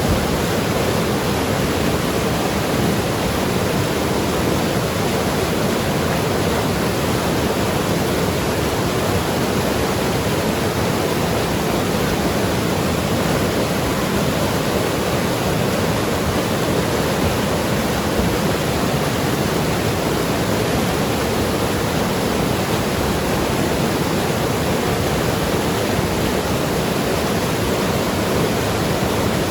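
Mountain river rushing and gurgling over rocks in a steady, unbroken flow.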